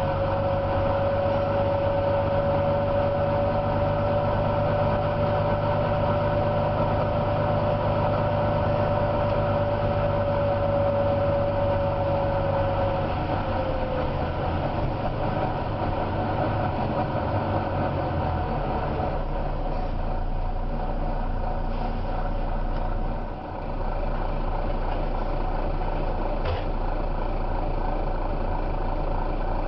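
Volvo B9TL double-decker bus's diesel engine running steadily with a deep note. A high steady whine sounds over it and fades away about halfway through, and the low engine note changes a few seconds later.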